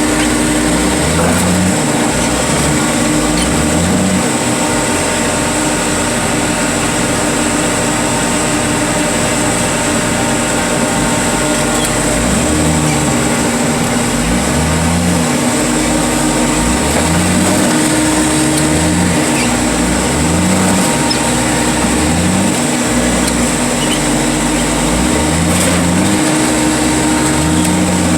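A heavy machinery engine running steadily at work, with a low note that rises and falls over and over.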